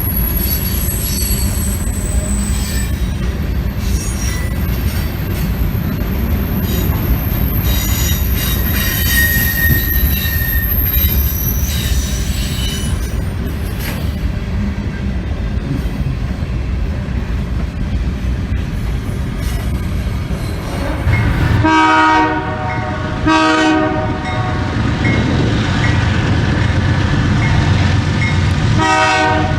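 Canadian Pacific train rumbling past with high-pitched wheel squeal in the first half. From about two-thirds of the way in, the locomotive horn sounds: two short blasts, then a longer sounding that swells again near the end.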